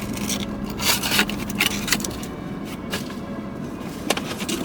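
Rustling and scraping of items and packaging being handled, in irregular short bursts, loudest about a second in, over a steady low hum.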